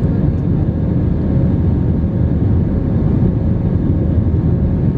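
Steady low rumble of an airliner's jet engines and airflow heard from inside the passenger cabin, with a faint steady hum above it.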